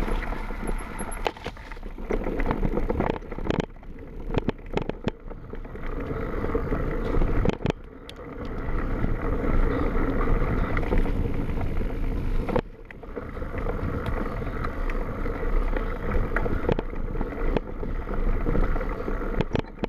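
Mountain bike riding downhill on a wet trail: tyres rolling over mud and dirt, with frequent knocks and rattles from the bike over bumps and wind on the microphone. The sound drops off briefly about eight and thirteen seconds in.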